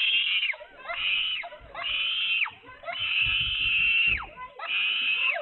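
A dog crying out in five high-pitched, drawn-out cries in a row. Each lasts about half a second to a second, with short breaks between, and the longest comes about three seconds in.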